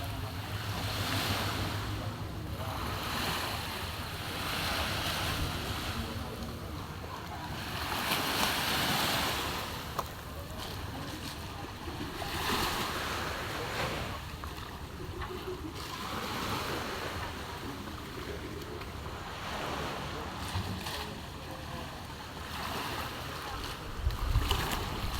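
Sea surf breaking and washing onto a beach, swelling and easing every few seconds.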